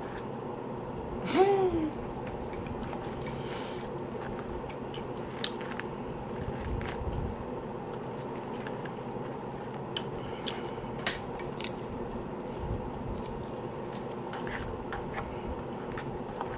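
A person biting and chewing fast food close to the microphone, with scattered small crunches and mouth clicks. A short voiced 'mm'-like sound comes about a second and a half in.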